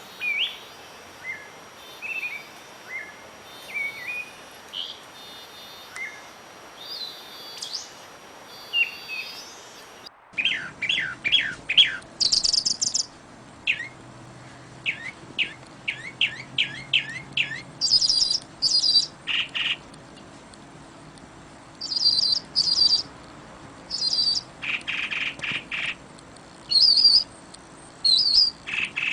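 Songbirds chirping and calling: at first sparse, short rising chirps, then, about ten seconds in, an abrupt change to louder, quicker runs of sweeping notes and repeated high calls, over a faint steady background hiss.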